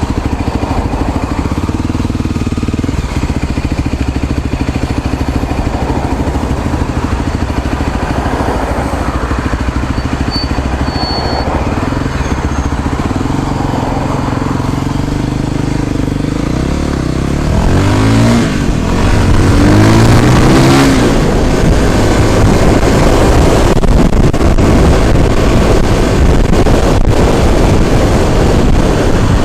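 Motor vehicle engine running steadily while under way. About 18 seconds in the engine note climbs in pitch a couple of times as it accelerates, and the sound grows louder.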